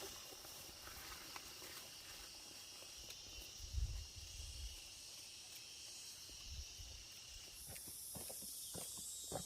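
Insects droning steadily at a high pitch, with scattered soft rustles and clicks and a low thump about four seconds in.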